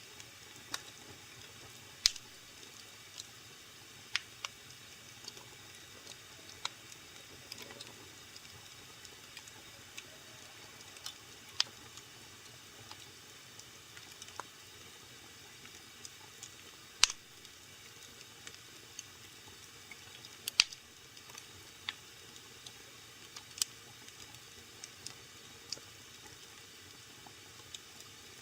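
Wood fire burning in a fireplace: irregular sharp crackles and pops over a faint steady hiss, a few pops much louder than the rest.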